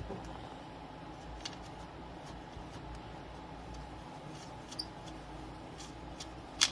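Small clicks and taps from handling tools and film at a workbench during polarizer film installation, over a steady low hum. A few faint ticks, then a sharp pair of clicks near the end.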